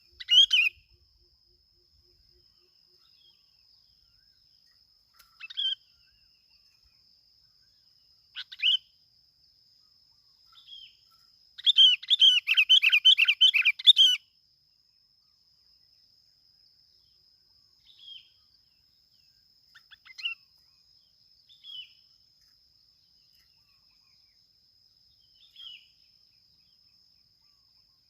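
Bulbul (bông lau) calling the 'kít bổi' call: short calls spaced a few seconds apart, with a rapid chattering run of about two and a half seconds near the middle. A thin steady high tone runs underneath.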